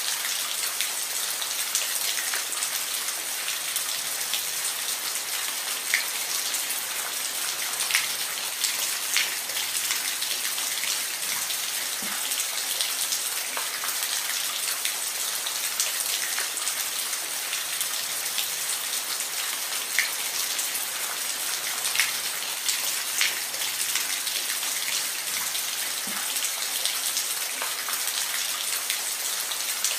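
Steady rain falling, a constant hiss with scattered individual drops tapping sharply on a surface.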